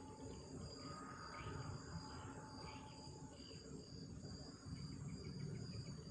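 Night insects, crickets among them, chirring steadily in a high continuous drone, over a low rumbling noise.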